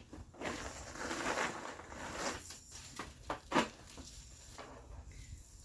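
A cropped hoodie being handled and turned over, its fabric rustling, with a few sharper rustles or knocks about halfway through.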